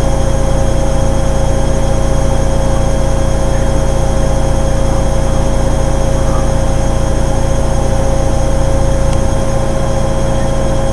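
Hoover Ecologic 800 automatic washing machine running, a steady low rumble with a constant motor whine over it; the rumble eases slightly near the end.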